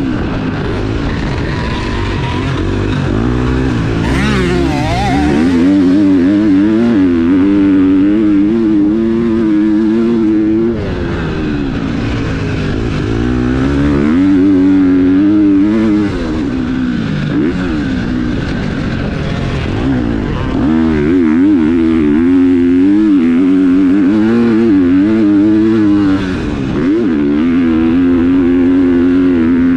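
Four-stroke motocross bike engine ridden hard, held at high revs for stretches of several seconds. The revs drop off and climb back up about three times as the throttle is chopped and reopened.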